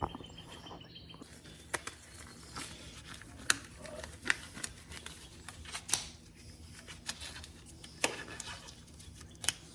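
Scattered sharp clicks and light rustling of small parts and tools being handled on a workbench, about half a dozen distinct clicks spread irregularly, as work begins on swapping a chainsaw's fuel line and fuel filter.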